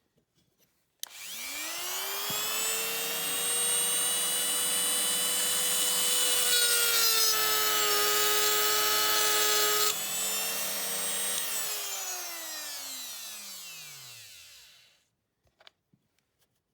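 A small high-speed electric drill spins up about a second in and runs with a steady whine. Its pitch dips under load as the bit cuts into the die-cast metal body. It is then released and winds down to a stop with a falling pitch.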